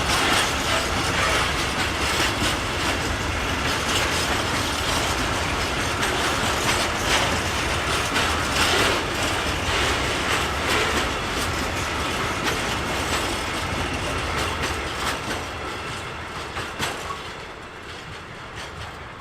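Freight train rolling past, its wheels clicking and clattering over the rail joints; the sound fades away near the end.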